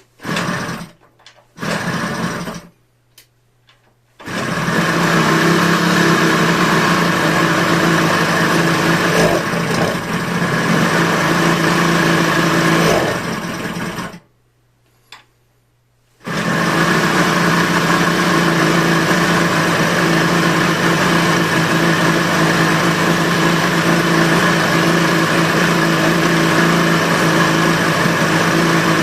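Small Yamaha two-stroke motorcycle engine (HX90 in an HS1) being started: it fires briefly twice, catches about four seconds in and runs for about ten seconds, dies with one short blip, then restarts about sixteen seconds in and idles steadily. The running engine has a prominent rattly, jingling mechanical chatter, made louder by the small room.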